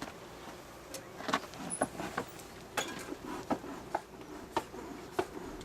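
Irregular clicks and short scrapes of a hive tool and wooden beehive parts being handled, about one every half second.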